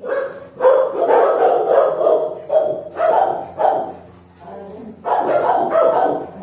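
Shelter dogs barking in a rapid string of barks, with a brief lull about four seconds in before the barking starts again.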